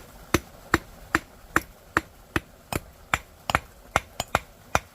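Hammer blows striking something hard, about a dozen sharp knocks in a steady rhythm of roughly two and a half a second.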